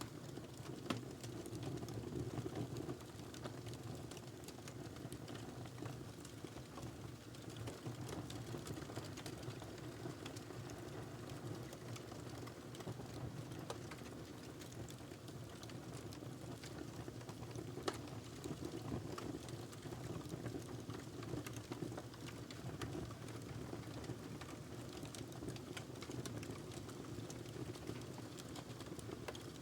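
Wood fire burning in a fireplace: a steady low rush of flame with constant small crackles and an occasional louder pop, about a second in and again a little past halfway.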